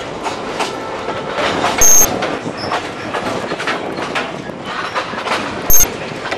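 A 750 mm narrow gauge train rolling along, its wheels clicking irregularly over the rail joints. Two very brief, loud, high-pitched squeals stand out, one about two seconds in and one near the end.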